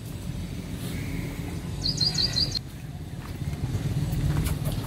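A small bird chirping a quick run of about five high notes about two seconds in, over a low steady background rumble that swells slightly near the end.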